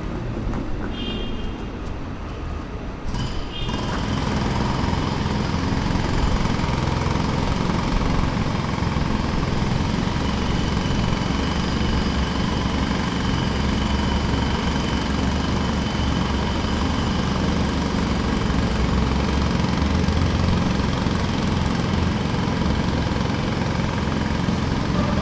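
Jackhammer breaking pavement, running steadily. It starts after a quieter low rumble and becomes much louder and fuller about four seconds in.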